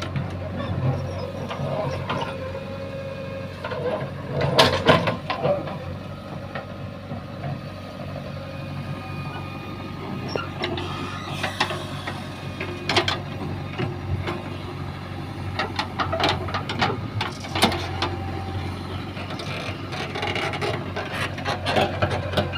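JCB 3DX backhoe loader's diesel engine running steadily under working load, with scattered knocks, the loudest about five seconds in.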